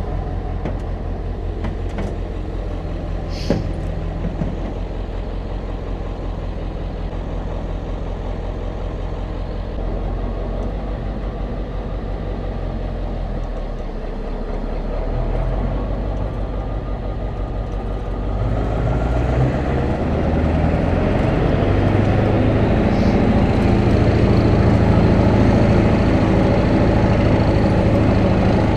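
A motor vehicle running with a steady low engine hum, growing louder with a faint rising whine about 19 seconds in as it picks up speed.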